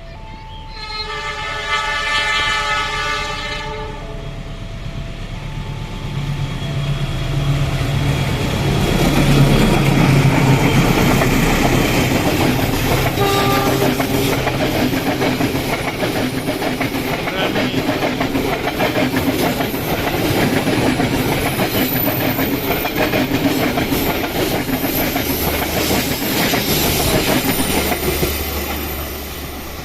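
A railway level-crossing warning alarm sounds in two alternating tones while a locomotive gives one horn blast of about three seconds. The train then passes over the crossing, its wheels rumbling and clattering for over twenty seconds before fading away near the end.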